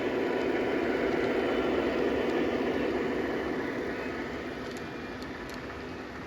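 O gauge electric model train running on the track, a steady rumble of motor and wheels that slowly fades as it moves away.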